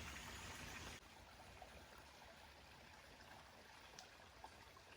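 Near silence: a faint, steady hiss of outdoor background, with a couple of faint ticks about four seconds in.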